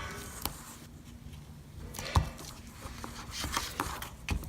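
Papercraft handling sounds: scattered rustles, taps and a few sharp clicks as strips of double-sided adhesive tape are laid along a paper flap and pressed down.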